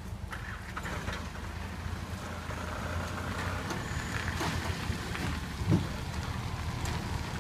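Diesel engine of a ten-wheel dump truck running steadily at a low pitch, with a few light knocks and rattles and one louder knock a little past the middle.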